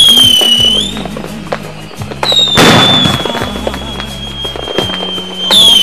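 Firework whistles and a bang over background music. A high whistle falls in pitch at the start, a long whistle runs from about two seconds in with a loud burst just under three seconds in, and another falling whistle comes near the end.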